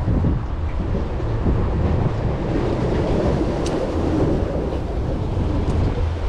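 Steady low rumbling noise with no clear rhythm or tone, thickening a little in the middle.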